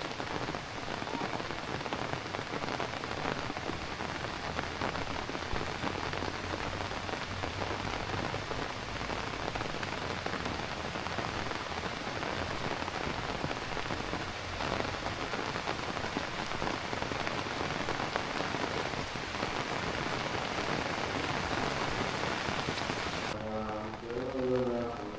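Heavy rain falling steadily, a dense, even hiss of drops. About two seconds before the end it cuts off abruptly and music begins.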